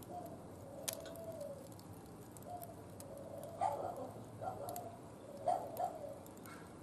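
A wood fire crackling, with sharp clicks now and then, the loudest about a second in. Short animal calls come through about five times in the second half.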